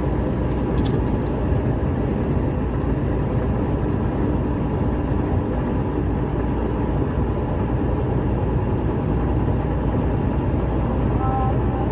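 Steady road and engine noise inside a truck cab while driving at highway speed, a constant low rumble with tyre hiss.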